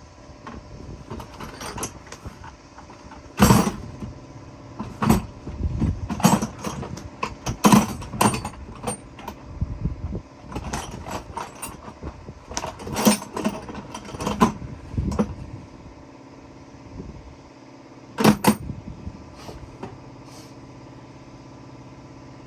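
Irregular knocks and clatters of hand tools and parts being handled while disconnecting a boat's inboard engine, two sharp bangs standing out a few seconds in and again near the end, over a steady fan hum.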